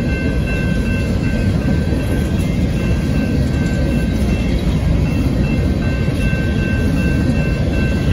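BNSF coal train's open-top coal cars rolling past at a grade crossing: a steady, loud rumble of wheels on rail. The crossing bell rings steadily above it.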